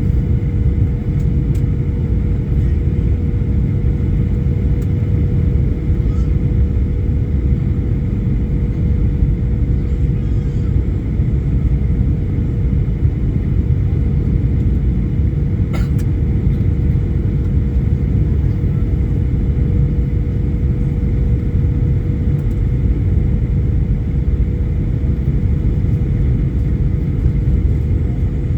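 Steady low rumble of a moving vehicle heard from inside, with a constant hum running under it and a single faint click about sixteen seconds in.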